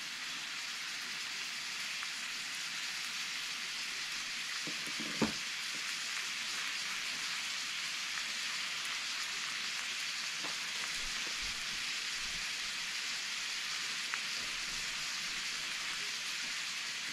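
Buttered sandwich sizzling steadily as it fries in a hot cast-iron skillet: a grilled cheese toasting. A single sharp knock comes about five seconds in.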